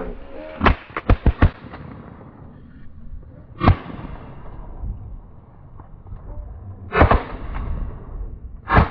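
Volley of shotgun blasts from several waterfowl hunters firing at geese: four quick shots about a second in, then single shots spread out, one near the end.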